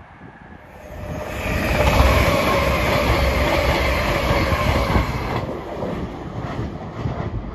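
Lumo Class 803 electric train passing through the station at speed: the rush of wheels on rail with a steady whine over it. It builds about a second in, stays loud for a few seconds, then fades as the train moves away.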